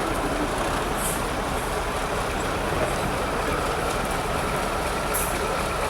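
A trial truck's engine running steadily under load, with a faint steady whine and two short hisses, about a second in and near the end.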